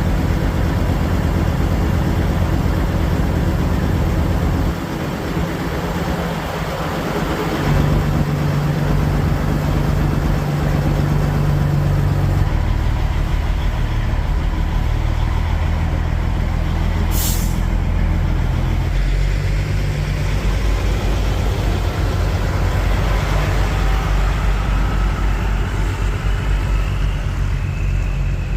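Kenworth semi truck's diesel engine running, its low note stepping to new pitches several times as the revs change. About two-thirds of the way through, one short, sharp hiss of air from the truck's air system.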